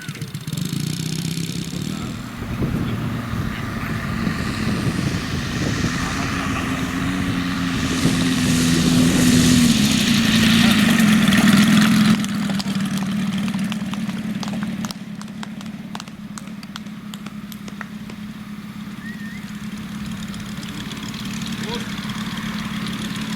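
Radio-controlled model airplane's engine running, its pitch and level climbing over several seconds, then dropping sharply about twelve seconds in and running on steadily at a lower level.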